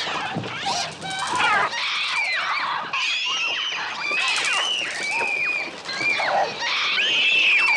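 A flock of attacking gulls shrieking, many falling-pitched cries overlapping one after another, mixed with children screaming. The film's gull cries are electronic, made on a Mixtur-Trautonium.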